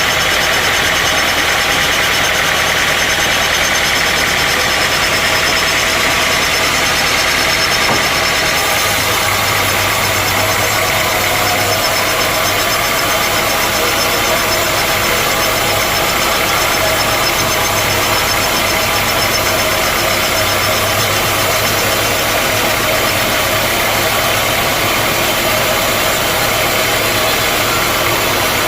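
Sawmill machinery running steadily and loudly, with a low hum that shifts in pitch about nine seconds in.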